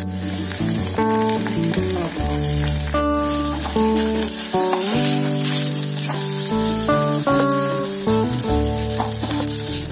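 Sliced carrots, potatoes and sausage sizzling in hot oil as they are stir-fried with a wooden spatula. Instrumental background music plays throughout, its notes as loud as the sizzle.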